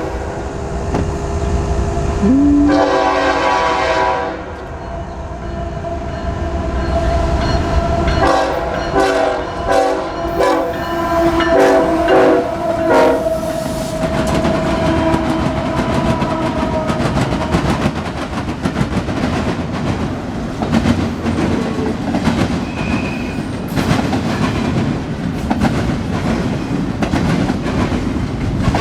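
Norfolk Southern freight locomotive's air horn sounding a chord: one blast about three seconds in, then a run of shorter and longer blasts from about eight to thirteen seconds. After that comes the steady rumble and rhythmic wheel clatter of the intermodal train's cars rolling past.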